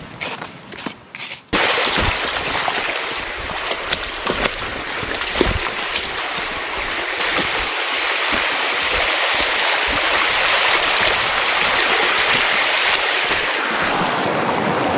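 Rushing river water, a loud steady hiss that starts abruptly about one and a half seconds in, with scattered knocks through it. Before it come a few faint scrapes and knocks.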